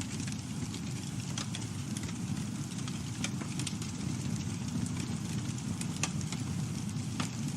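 Campfire burning with a steady low rush of flames and frequent sharp crackles and pops from the wood, a few each second.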